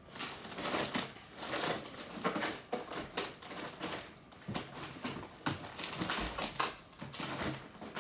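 Rummaging: a rapid, irregular run of rustles, crinkles and clicks from things being handled and shifted while searching.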